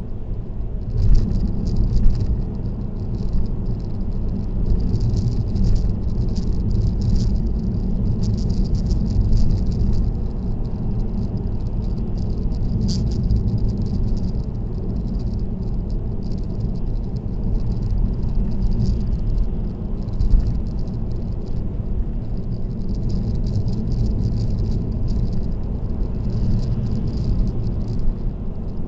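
Steady road noise of a car driving on an expressway, with a light rattle coming and going throughout.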